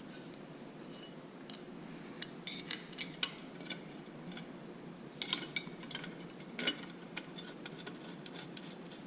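Light metal clicks and clinks of tools and hardware being handled. They come in a cluster a couple of seconds in and again about five seconds in, with a few more scattered after.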